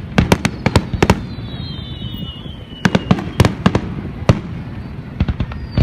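Fireworks going off: rapid, irregular sharp cracks and bangs in clusters, with a high whistle gliding slowly down in pitch from about half a second to two seconds in.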